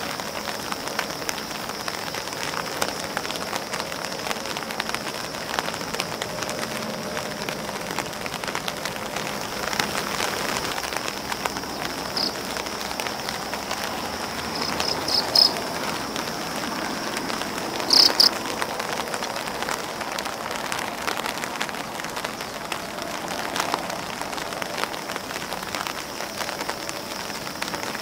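Steady rain pattering on an umbrella and on grass leaves, the drops ticking densely over an even hiss. A few short high chirps stand out about halfway through and again around two-thirds of the way in.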